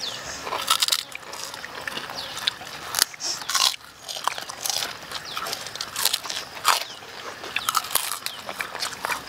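Several people biting and chewing crunchy food close by, with many short crisp crunches at an uneven pace.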